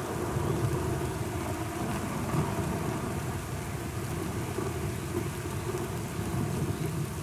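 Steady heavy rain falling, with a low continuous rumble underneath that fits distant thunder.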